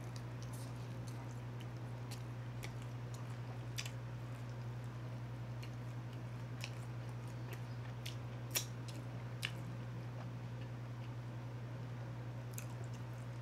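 Close-miked chewing of bone-in chicken wings: wet mouth sounds with scattered crisp clicks, two of them louder a little past halfway, over a steady low hum.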